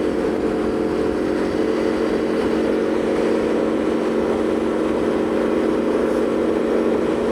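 Aprilia Tuono V4's V4 engine running at a steady cruising speed, its pitch holding level, with wind noise rushing past.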